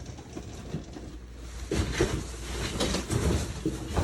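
Irregular rustling and light knocks of household clutter being handled and shifted, getting busier about halfway through.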